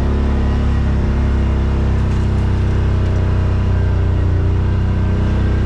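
Yamaha RMAX side-by-side's engine running steadily under way, a constant low drone that strengthens slightly about two seconds in.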